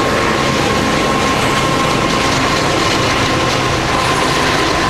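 Freight train hauled by two diesel locomotives passing close by: loud, steady locomotive and wheel-on-rail noise, with a thin high-pitched tone held through it.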